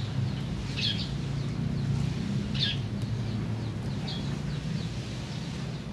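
A small bird chirping a few times in short high calls, over a steady low hum.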